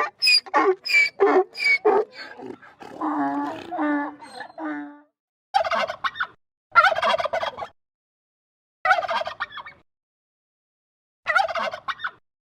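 Domestic fowl calling: a quick run of repeated calls, a longer wavering call, then four separate calls, each under a second long, spaced one to two seconds apart.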